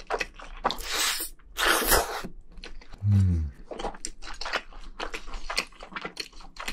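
Close-miked wet chewing of a mouthful of black bean noodles, a steady run of small smacking clicks. About a second in come two long breathy noises, and about three seconds in a short low hum from the voice that falls in pitch.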